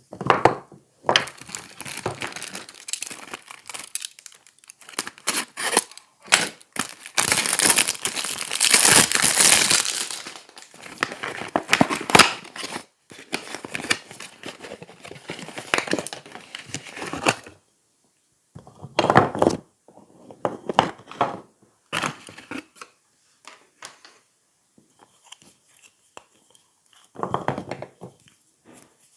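Soap packaging being torn open and crinkled: a long stretch of continuous tearing and rustling, loudest about a third of the way through, then a pause and a few short separate crinkles near the end.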